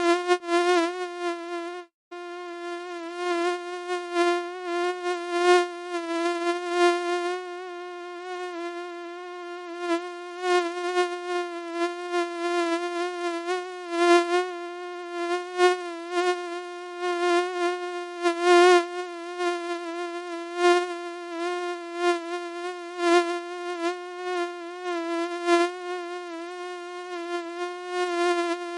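Mosquito wing buzz: a steady, high, thin whine that wavers slightly in pitch and swells and fades in loudness, cutting out for an instant about two seconds in.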